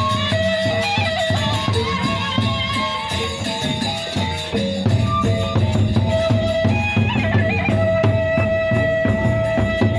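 Gendang beleq ensemble playing: large drums beating dense, rapid strokes under a wind instrument holding long melody notes, a little louder about halfway through.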